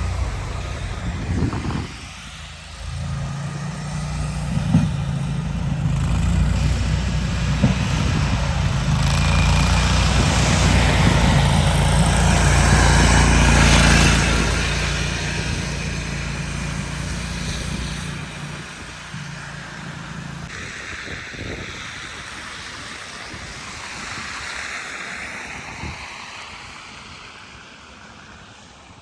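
A heavy motor vehicle's engine approaching and passing, growing louder to a peak about halfway through and then fading away, over a steady rush of noise.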